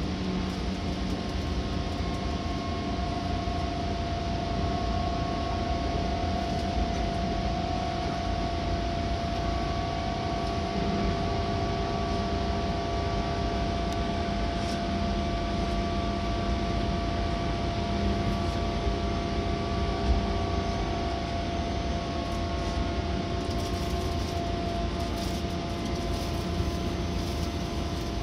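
Seibu Red Arrow limited express electric train running at steady speed, heard from inside the passenger car: a constant rumble of wheels on rail with a steady high whine over it. One small knock about two-thirds of the way through.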